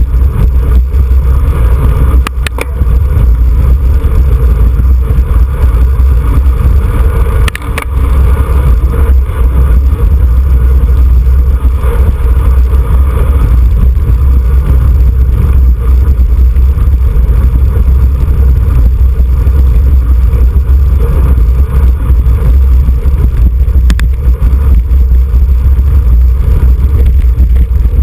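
Wind buffeting a camera microphone at bicycle racing speed: a loud, steady, low rumble. It is broken twice in the first few seconds by a brief dip with a click.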